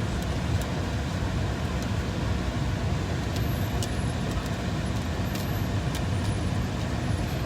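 2000 Honda Accord LX running at a steady idle with its air-conditioning blower on, a constant low rumble under an even rush of air, heard from inside the car.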